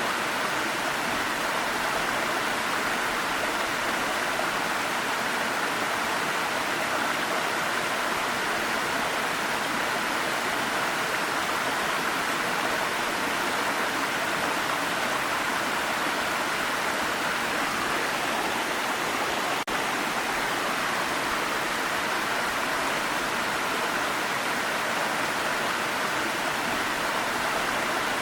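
Waterfall rushing as a steady, unbroken wash of water noise, with a single brief tick about two-thirds of the way through.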